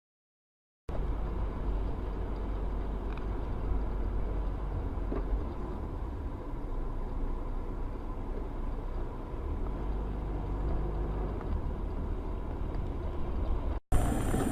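Steady motor-vehicle driving noise with a low rumble, starting about a second in and cutting off abruptly near the end.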